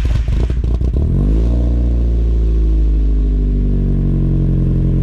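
A 2000 Mazda MX-5 Miata's four-cylinder engine, fitted with a straight-through ISR cat-delete exhaust, being started. The starter cranks briefly, the engine catches about a second in with a quick rise in revs, then settles into a steady fast cold idle.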